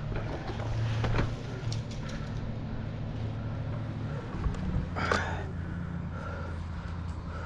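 An engine idling steadily, with scattered clicks and rustling of gear handled close by and one louder rustle about five seconds in.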